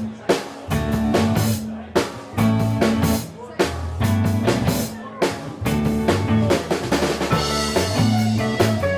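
Live rock band playing the instrumental opening of a song: drum kit beating a steady rhythm of rimshots and bass drum over held bass notes and chords.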